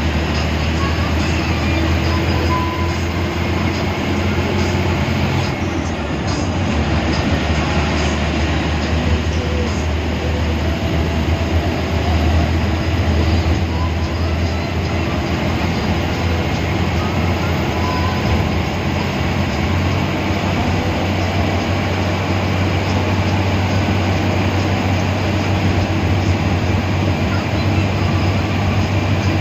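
Steady drone of a moving bus heard from inside the cabin: low engine hum with road and rolling noise.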